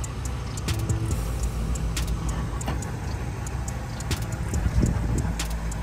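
A car engine idling with a steady low rumble, with a few light clicks and knocks over it.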